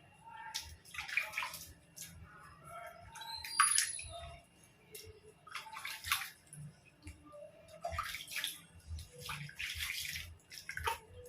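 Water splashing and pouring in irregular bursts while a puppy is bathed, with a short high-pitched squeak about three and a half seconds in.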